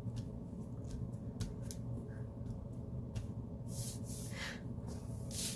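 Paper being handled on a desk: a few light taps, then two short swishes of paper sliding near the end, over a steady low hum.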